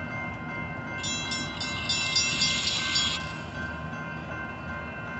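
Nathan K5HL air horn on a BNSF locomotive sounding as a steady chord over the low rumble of a passing freight train. A bright, rattling hiss from the train rises about a second in and drops away about two seconds later.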